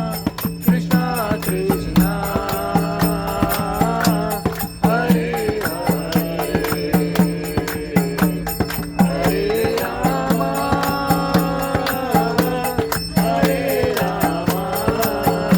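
Devotional kirtan singing: voices chanting a melodic mantra over a steady low drone, with hand percussion striking a steady beat about two to three times a second.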